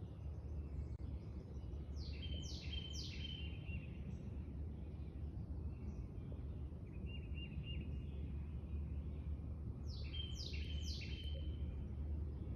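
Songbird calling: a phrase of three quick falling notes about two seconds in, a shorter call near the middle, and the three-note phrase again about ten seconds in. Under it runs a steady low rumble.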